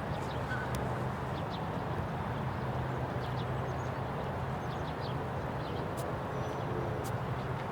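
Golf cart running steadily while driving, a low even hum with a rushing noise. Faint bird chirps come through now and then.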